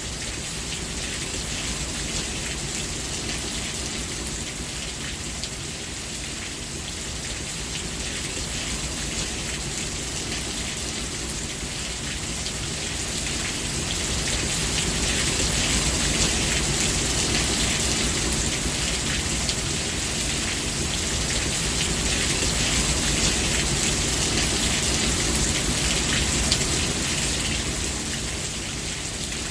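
Steady rain falling and pattering on surfaces, with a low rumble underneath; it swells louder about halfway through and eases again near the end.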